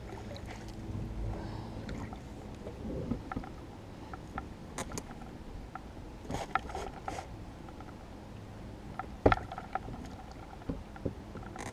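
An oar creaking and knocking against an 8-foot dinghy as it is sculled and worked through a narrow creek: scattered light clicks, with a sharper knock about nine seconds in.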